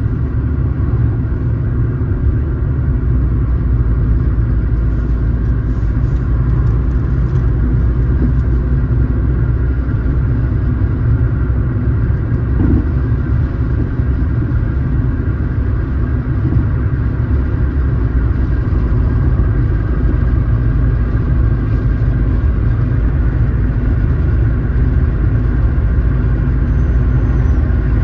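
Car driving at a steady speed: a continuous low rumble of engine and road noise.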